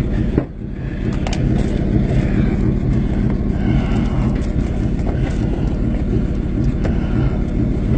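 Tow truck's diesel-like engine running steadily at idle with a loud exhaust, its muffler in need of repair, level dipping briefly about half a second in.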